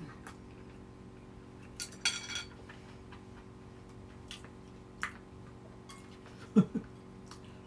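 Quiet tableware sounds of eating: a few light clicks of utensils on dishes and a brief ringing clink of a dish about two seconds in, over a faint steady hum. A short voiced sound near the end.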